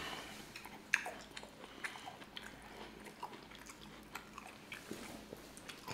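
Close-miked chewing and mouth sounds of people eating, with scattered small clicks; the sharpest click comes about a second in.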